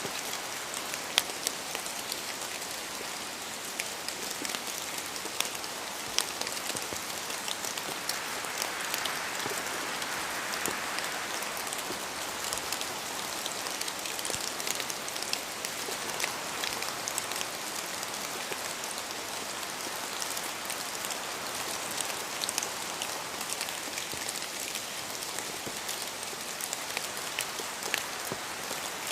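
Steady rain, with many separate drops tapping sharply close by.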